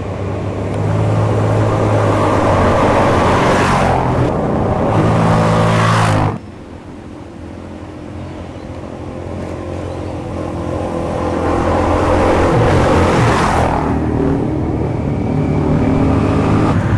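Dirt bike engine running under way with wind and motion noise. The sound drops off sharply about six seconds in, then builds back up toward the end.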